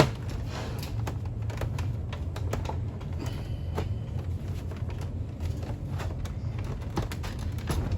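Irregular light clicks and taps, small parts and tools being handled, over a steady low hum.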